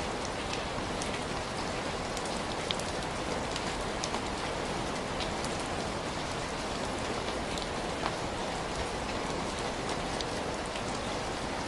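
Steady rain falling on a surface, an even hiss with scattered faint ticks of individual drops.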